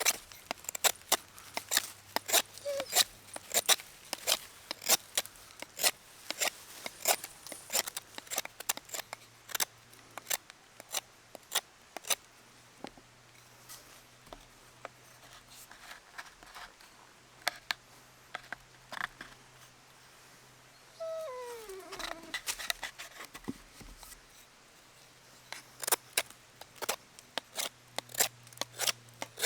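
Knife whittling wood: a run of sharp cutting strokes, two to three a second, that thins out in the middle and picks up again near the end. About two-thirds of the way in, a short falling whine is heard.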